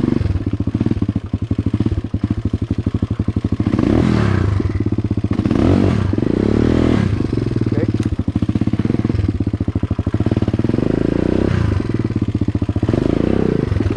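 A 2008 dirt bike's engine running loud, its revs rising and falling several times as the throttle is worked. The exhaust is loud because its muffler has little packing left.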